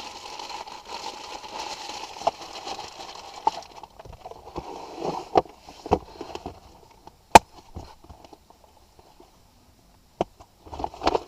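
Rustling as the geocache container is packed, then a scattering of sharp clicks and knocks from handling and closing it, the loudest about seven seconds in.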